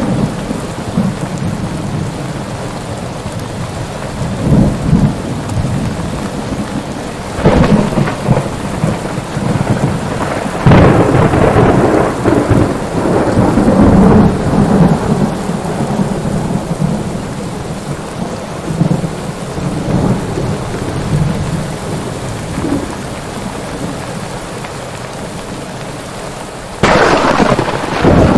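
Steady rain with rolling thunder. Sudden thunderclaps come about seven and a half seconds in, about eleven seconds in and near the end, each trailing off into a long rumble.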